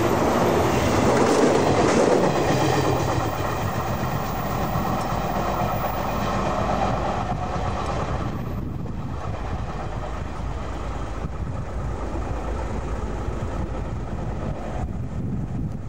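Express electric train running past close by on the rails, loudest at the start and fading as it goes away; after about eight seconds only a fainter steady low rumble remains.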